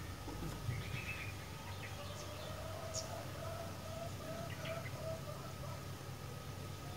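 Sooty-headed bulbul (kutilang) calling faintly in short chirps, with a run of short, lower repeated notes in the middle. A steady faint hum lies under it.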